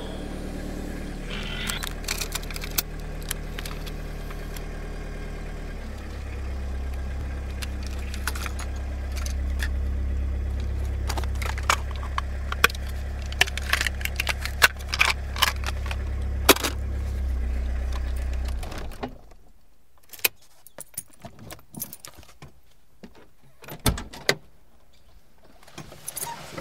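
Car engine running steadily, its low note shifting a few times, with keys jangling and clicking over it. The engine cuts off suddenly about two-thirds of the way through, leaving scattered small clicks and a single knock.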